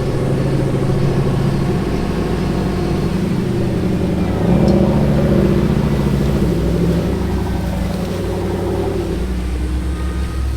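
A vehicle engine running steadily, revving up about four and a half seconds in and settling back down about two seconds later.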